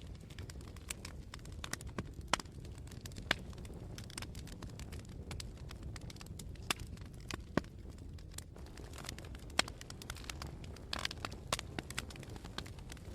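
Wood fire burning, a steady low rumble of flame broken by scattered sharp crackles and pops, a quick cluster of them about eleven seconds in.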